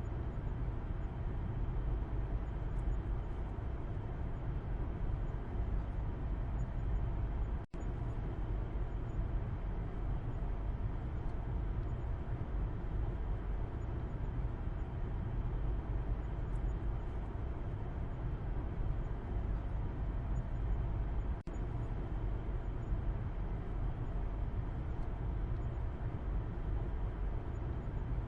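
Steady low rumble of a car driving, heard from the back seat inside the cabin: road and engine noise. The sound cuts out for an instant twice, about a quarter of the way in and about three-quarters of the way in.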